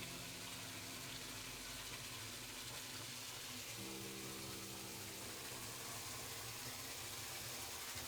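Water falling and running through a garden waterfall and stream, a steady splashing.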